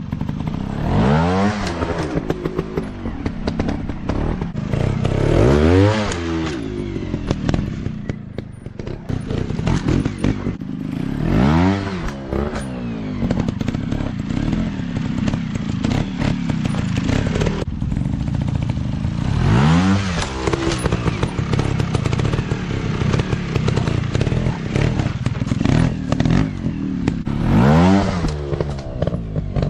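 Dirt bike engines revving up and falling back in repeated surges, about five in all, over a continuous clatter of sharp clicks.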